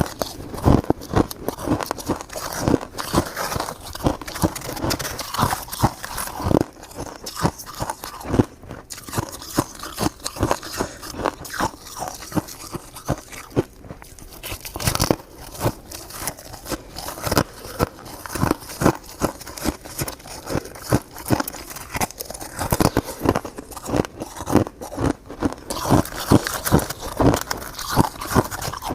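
A person biting and chewing crushed ice, a dense run of irregular crunches, several a second.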